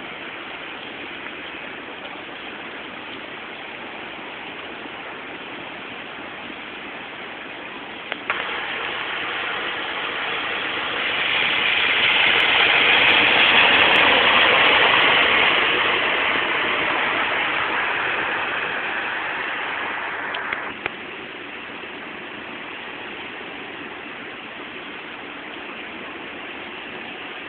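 Heavy rain and floodwater running steadily. About a third of the way in a louder hiss sets in, swells to a peak midway, eases off and then cuts back suddenly to the steady rain.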